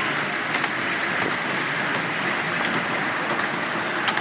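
Miniature railway train running along the track: a steady rolling rush of wheels on rails, with a few sharp clicks at irregular intervals as the wheels pass over rail joints.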